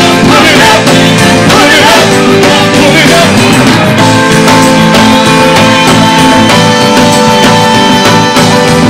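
Live worship band playing loud music with a steady beat. Wavering melodic lines in the first few seconds give way to long held chords.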